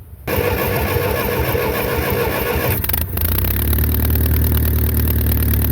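Classic farm tractor engine being started: a loud cranking for about two and a half seconds, then the engine catches about three seconds in and settles into a steady low idle.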